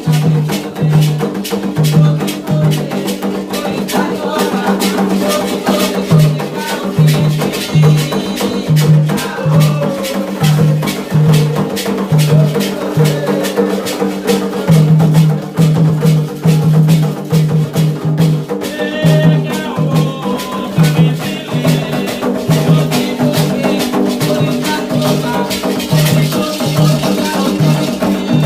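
Candomblé ritual percussion: atabaque hand drums beat a steady, driving rhythm under continuous shaking rattles, with voices singing along.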